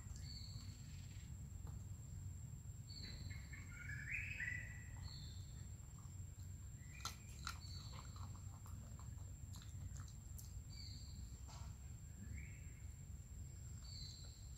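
Faint birds calling in the background: short high notes recurring every few seconds, with a rising chirp about four seconds in, over a steady low rumble.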